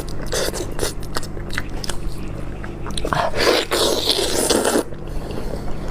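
A person biting and chewing food close to the microphone, with sharp crunching and crackling bites, over a steady low hum.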